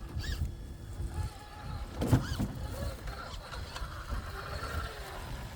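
Axial SCX6 Honcho 1/6-scale RC rock crawler's electric motor and geared drivetrain whining as it crawls over rocks, over a steady low rumble, with a short knock about two seconds in.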